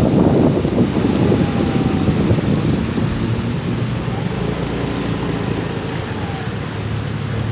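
Rain falling steadily, loudest in the first couple of seconds and easing a little, with a faint low engine hum underneath later on.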